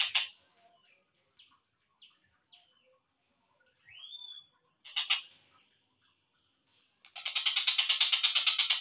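Slowed-down recording of a collared kingfisher calling. A rapid harsh series of repeated notes breaks off just after the start. Scattered short notes follow, with one rising whistle about four seconds in and a brief burst near five seconds. From about seven seconds another long, rapid series of harsh notes begins.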